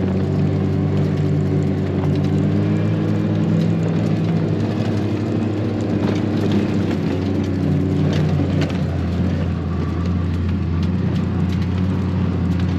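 A vehicle's engine running steadily, a low hum whose pitch shifts a little now and then.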